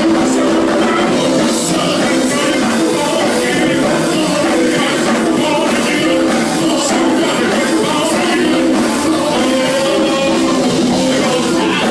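Live gospel band music with a steady beat and some singing.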